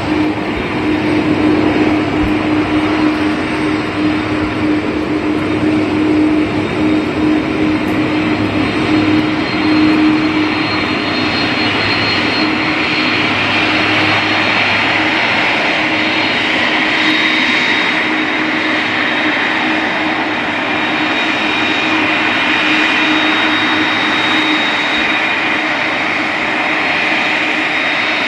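Jet airliner engines running, loud and steady. A low hum fades out about two-thirds of the way through, while a high whine grows in during the second half.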